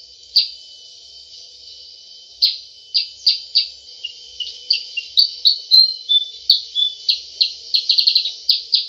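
Kutilang sutra bulbul giving rapid, repeated 'cep cep' chip calls, each a short downward-sweeping note. The chips pause for about two seconds near the start, then resume with a few short whistled notes and a quicker run of chips near the end.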